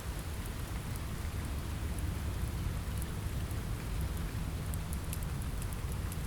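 Steady rain on a window, with a low rumble underneath and scattered faint high ticks.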